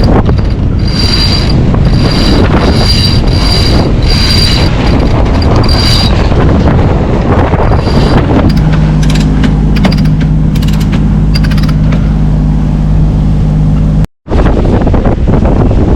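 Sailing yacht's engine running under way, with wind buffeting the microphone. For the first six seconds a high squeak repeats about every three-quarters of a second. The sound cuts out for a moment near the end.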